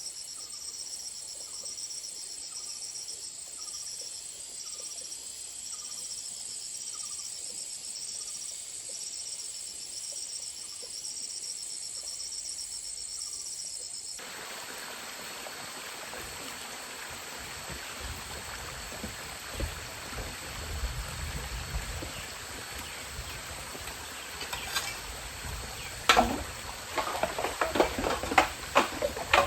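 Insect chorus, a steady high buzzing with a rhythmic pulse repeating about every two-thirds of a second. About halfway through it cuts off abruptly to an even hiss with a low rumble. Near the end comes a quick run of sharp clicks and knocks, the loudest sounds here.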